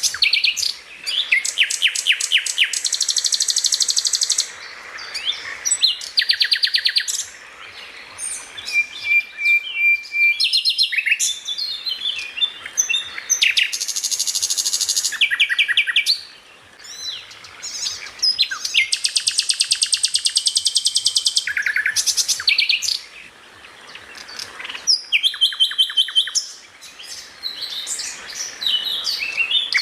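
A songbird singing fast, high-pitched trills and buzzy phrases, each a few seconds long, with short gaps between them.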